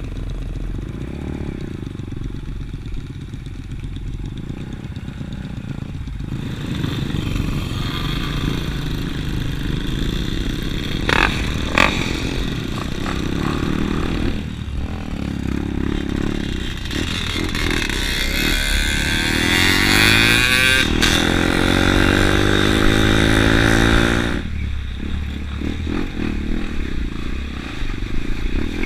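Dirt bike engine running, revving harder with its pitch rising and falling from about six seconds in until near the end, with two sharp knocks in the middle.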